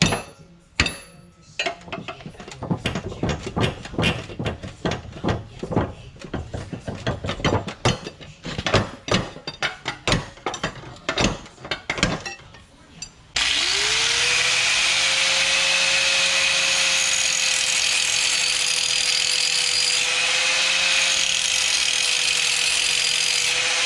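Rapid, irregular clicks and knocks for about the first half. Then, abruptly, a motor spins up and runs steadily with a constant whine.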